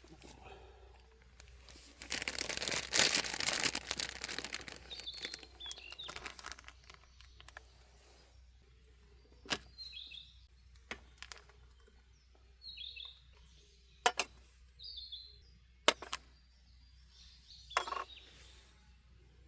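Small birds chirping with short, repeated calls. About two seconds in comes a loud noise lasting some four seconds, and later five sharp knocks or clicks, spread a few seconds apart.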